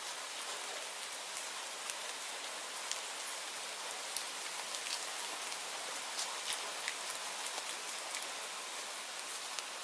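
Steady rain falling: an even hiss with many scattered sharp ticks.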